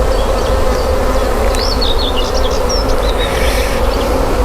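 Honeybees buzzing steadily around an open hive, a dense, even hum.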